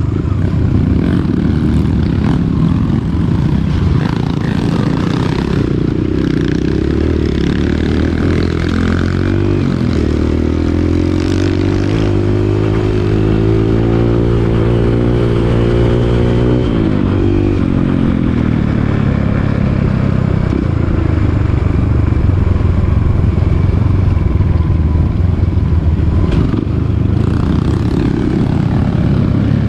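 Dirt bike engine running while being ridden, its note rising and holding steady for several seconds midway, then dropping back.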